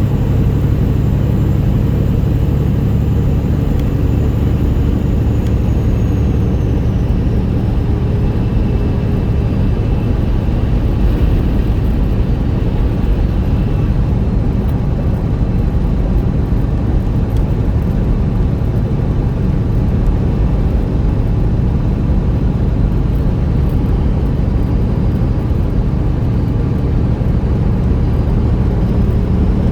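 Straight-piped Detroit 60 Series diesel of a 1999 Peterbilt 379 running at a steady drone under way. A faint high whine falls in pitch early on.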